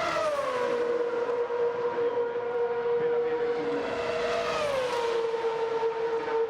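Ferrari Formula 1 car engine running as a steady, high-pitched whine. Its pitch drops right at the start, climbs slowly, then drops again about five seconds in.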